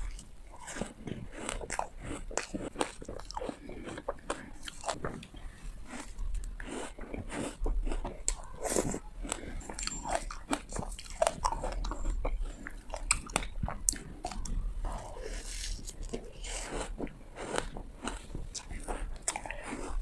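Hard ice being bitten and chewed close to the microphone: a quick, irregular run of crisp cracking crunches, with chewing between the bites.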